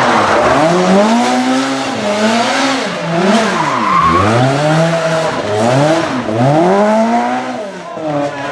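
A historic rally car's engine revving hard up and down about five times in quick succession, with tyres squealing and skidding as it slides.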